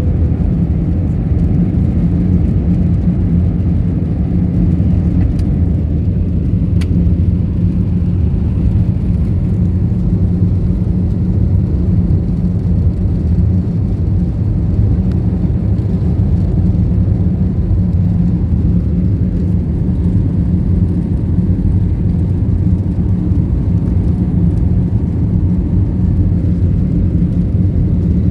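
Airliner cabin noise during takeoff: jet engines and rushing air heard from inside the cabin as a loud, steady low rumble.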